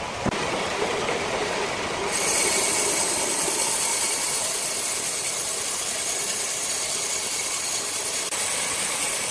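Large sawmill circular saw running and cutting a rosewood block. About two seconds in, the sound turns suddenly brighter and louder, with a steady high hiss, as the blade works through the wood.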